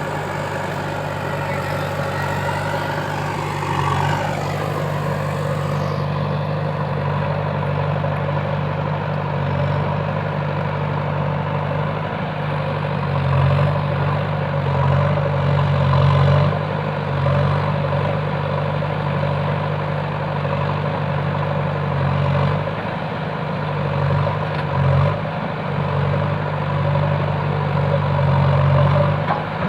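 Heavy diesel engine running steadily, its low note swelling several times as it works harder.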